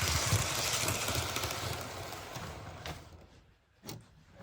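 Model InterCity 125 (HST) train running on the layout track, a steady whirring and rumbling of motor and wheels that fades out about three seconds in as the train stops, followed by a couple of sharp clicks.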